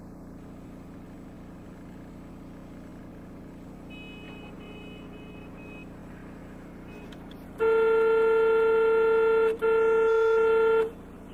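A steady low hum of a car on the road, with a few faint high beeps midway. Then a loud car horn blares for about two seconds, cuts out for an instant, and blares again for over a second.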